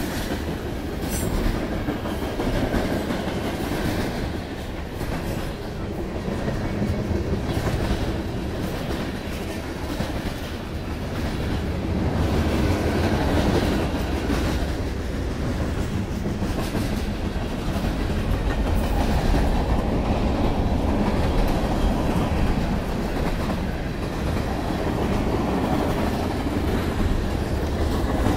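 Freight cars of a mixed freight train (boxcars, tank cars, covered hoppers and centerbeam flatcars) rolling past close by. Their steel wheels make a steady rumble on the rail, broken by frequent sharp clicks.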